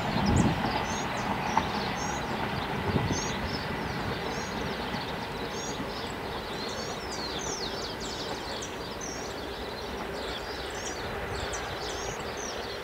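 Passenger train's low rumble, fading as it draws away into the distance. Many small birds chirp throughout, growing more prominent as the train fades.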